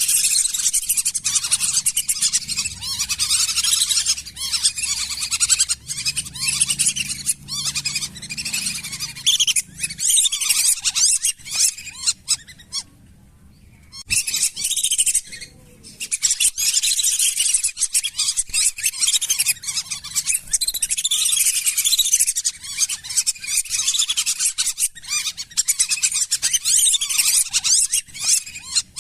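Flock of lesser whistling ducks calling: a dense, continuous chatter of high whistles, broken by two short pauses around the middle.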